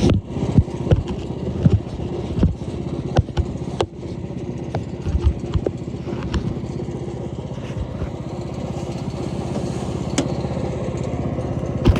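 Jansen GTS-1500 wood chipper's gas engine running steadily, its bed knife freshly set closer to the blades. Several sharp knocks and thumps come over it in the first four seconds, with a couple more later.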